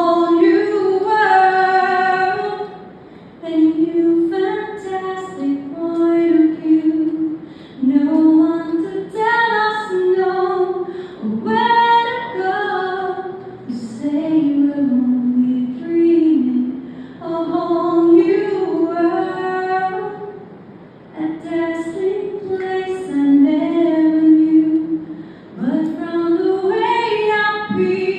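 A woman singing solo, unaccompanied, in sustained melodic phrases with short pauses for breath between them.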